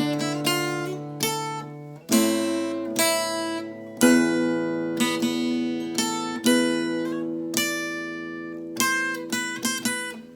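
Solo acoustic guitar playing an enka melody: single plucked notes ringing out and fading, broken by louder strummed chords roughly every two seconds.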